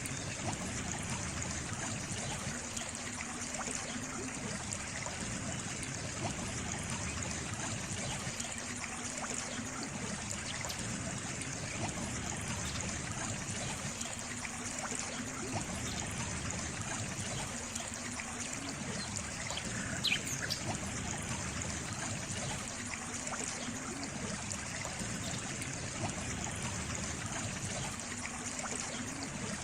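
A small stream trickling steadily, with one brief high chirp about two-thirds of the way through.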